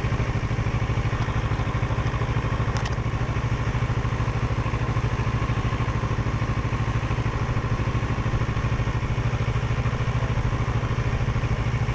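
Parallel-twin motorcycle engine running steadily at a constant pitch, with a low, even pulse and no revving.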